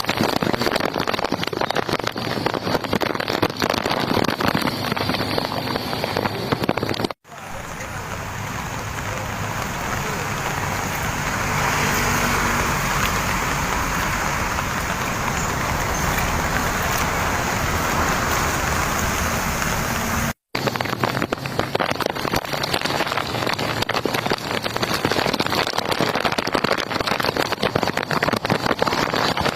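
Heavy storm rain and wind: a dense patter of rain, then after a sudden cut a steady rushing noise of wind and rain that builds over a few seconds, then after a second cut the dense rain patter again.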